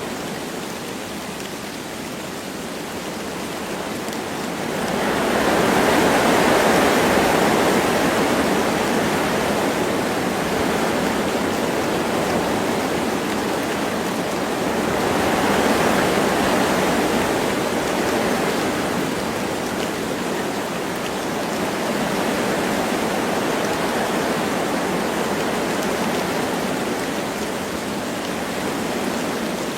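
Wind blowing through forest trees with light rain: a steady rushing noise that swells in gusts about five seconds in and again around fifteen seconds.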